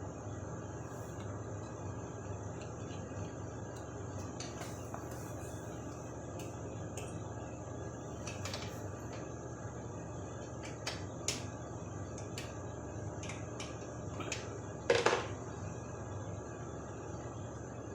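Light metallic clicks and clinks of hand tools working on the carburetor mounting bolts of a small Chinese ATV, with a louder metal clatter about fifteen seconds in, over a steady low hum.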